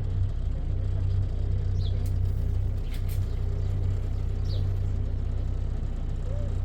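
A motor vehicle's engine running steadily, a low drone, with three faint short high chirps over it.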